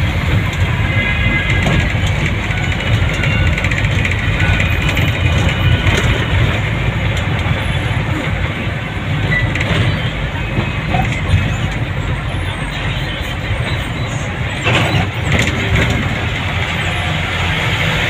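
Steady noise of a vehicle travelling along a road: engine and road noise, heaviest in the low end and unbroken.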